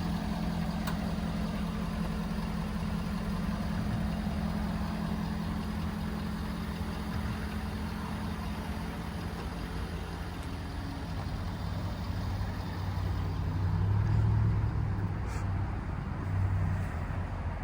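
A 6.7 L turbo-diesel V8 idling steadily. It swells louder about three-quarters of the way through and again briefly near the end.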